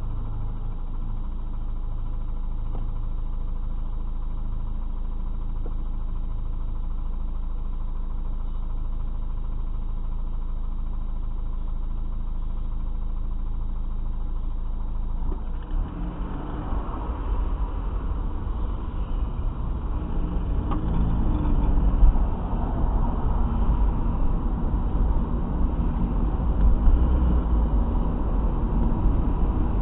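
A road vehicle's engine idling with a steady hum, then, about halfway through, a louder, uneven low rumble of engines and tyres as traffic gets moving.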